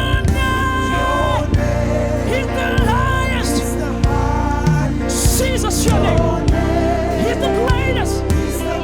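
Live gospel worship music: singing voices over a band with steady bass and drum hits, in a congregational praise song.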